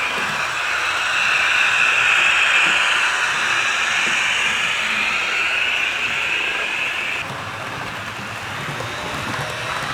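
HO scale model train running along the track: a steady rolling hiss with a motor whine that wavers slightly in pitch, dropping away suddenly about seven seconds in.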